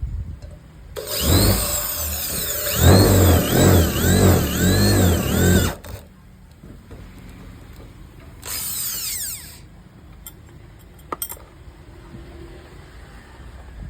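MAKTEX 230 W electric drill motor running for about five seconds, its pitch swinging up and down about twice a second. A second short run of about a second winds down in pitch, followed by a few light clicks.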